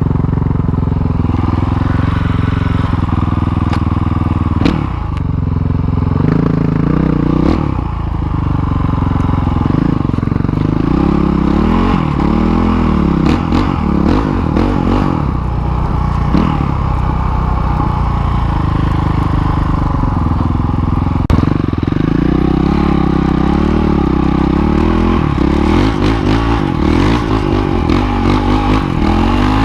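Dirt bike engine running while riding, its note rising and falling repeatedly as the throttle is opened and closed. A few sharp knocks break in.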